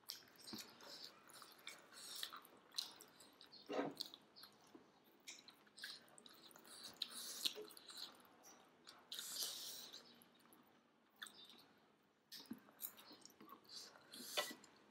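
Faint chewing and mouth sounds of people eating momo dumplings: soft wet smacks and short clicks scattered irregularly.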